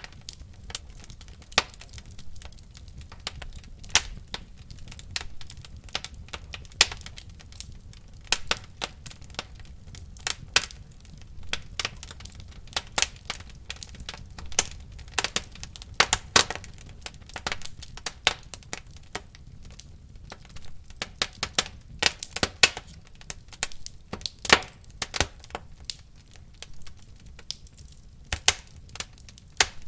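Wood fire in a fireplace crackling and popping, with irregular sharp snaps, some louder than the rest, over a low steady rumble of the flames.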